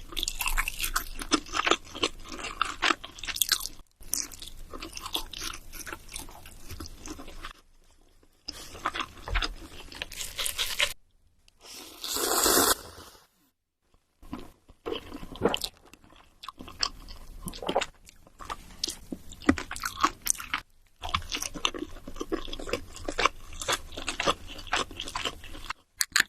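Close-miked eating: crunchy food being bitten and chewed in quick crackly bursts. The sound cuts off abruptly several times, and a hiss about a second long comes near the middle.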